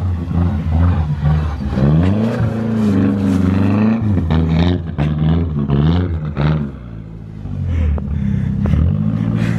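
Turbocharged car engine revving up and down repeatedly under hard driving. The revs drop away briefly about seven seconds in, then climb again.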